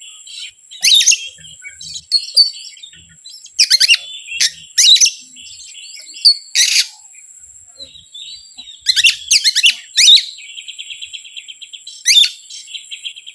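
Songbird singing loud, short chirping phrases again and again, with a fast chattering trill from about eight to ten seconds in. A steady high-pitched whine runs underneath.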